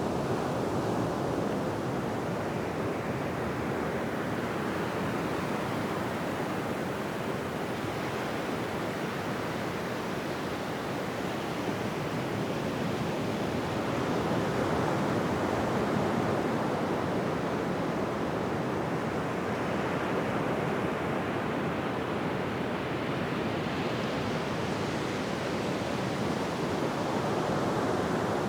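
Ocean waves breaking on a beach: a steady wash of surf that swells and eases slowly every several seconds, with no single distinct crash.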